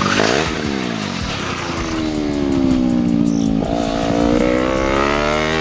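Superbike racing motorcycle engines at high revs. Two pitches cross near the start, then one pitch falls slowly for a few seconds and jumps back up about two-thirds through.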